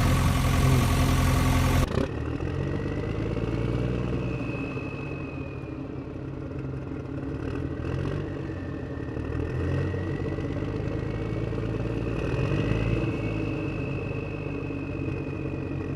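Vehicle engine sound running at a steady idle, with a faint high whine that wavers slowly in pitch; a louder, different sound cuts off abruptly about two seconds in.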